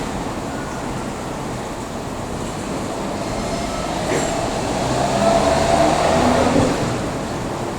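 A train moving on the tracks with a steady rumble that grows louder about five seconds in, bringing a short high tone, then falls back.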